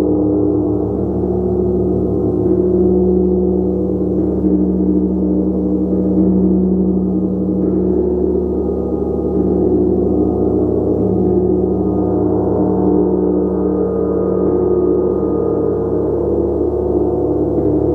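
Gong played continuously, with soft strokes now and then keeping its many overlapping tones going in a dense, steady wash.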